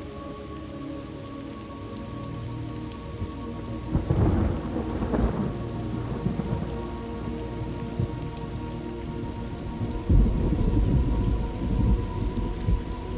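Thunderstorm ambience: steady rain with two rolls of thunder, one about four seconds in and a louder one about ten seconds in, over a few soft held tones.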